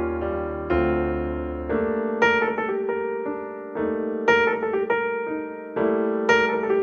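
Background piano music, slow and gentle: single notes and chords struck about every second, each ringing out, over a low bass.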